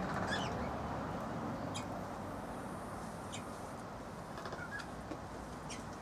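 Birds chirping: about five short, high chirps scattered over a few seconds, over a steady low background noise.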